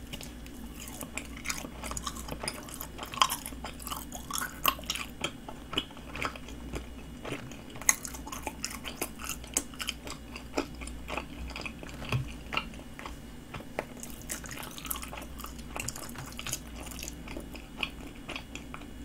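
A person chewing a mouthful of pastry: a steady run of small crunching and mouth clicks, several a second.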